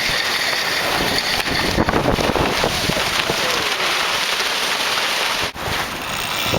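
Wind buffeting the microphone over the rush of water along the hull of a sailing yacht running downwind, a steady noisy rush that drops out briefly about five and a half seconds in.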